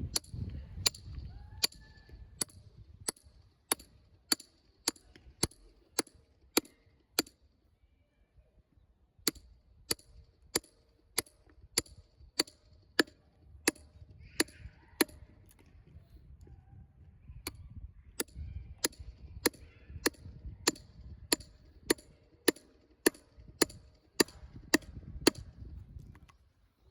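Repeated sharp strikes at a steady pace of about two a second, in two long runs with a pause of about two seconds between them.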